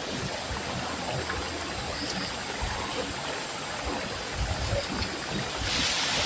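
Steady rush of flowing water from a small stream or drain channel, with scattered low thuds; the hiss grows brighter near the end.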